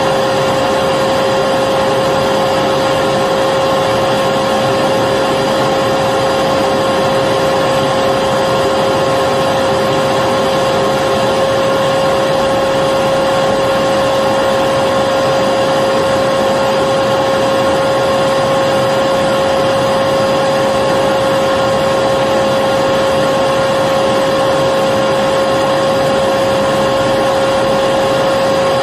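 Electric vacuum cleaner running steadily, a constant rushing hum with a high motor whine, unchanging.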